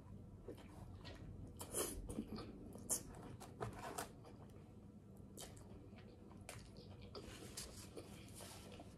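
Biting into a sub sandwich on a crusty roll and chewing it: faint crunches and wet mouth sounds, with a few louder crunches in the first four seconds.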